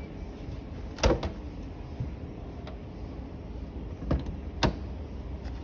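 Display washing machine doors being handled: a few sharp knocks and clicks, the loudest about a second in and two more around four seconds in, over a steady low hum.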